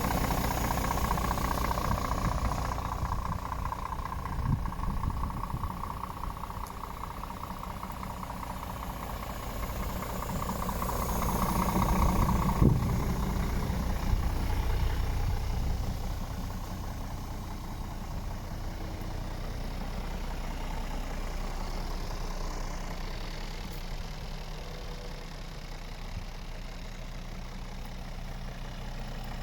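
Scania R450 truck's six-cylinder diesel engine idling steadily, growing louder for a few seconds around the middle, with a single sharp knock about twelve and a half seconds in.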